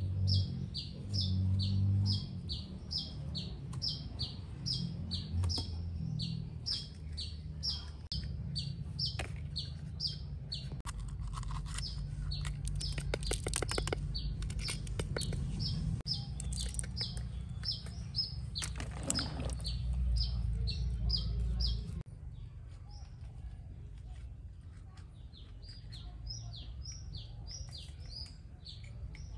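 A bird calling over and over, a short high chirp repeated about two to three times a second, growing fainter about two-thirds of the way through. About halfway through comes a run of quick sharp clicks as chilies are cut by knife.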